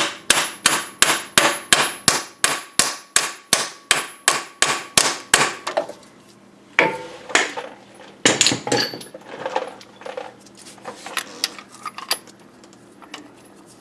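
Hammer blows on a seal driver, tapping a harmonic balancer onto the crankshaft: a steady run of sharp metal strikes, about three a second, for the first five and a half seconds. After that come scattered, irregular metallic clanks.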